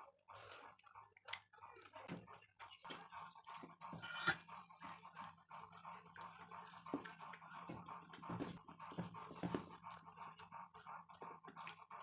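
Close-miked chewing and mouth sounds of someone eating paneer and soybean: irregular soft wet clicks and smacks, over a steady faint hum.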